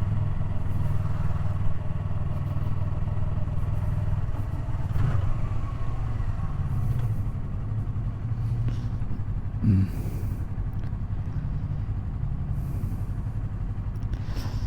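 Yamaha R3's parallel-twin engine running at a fairly steady cruise, heard from the rider's camera over road and wind noise.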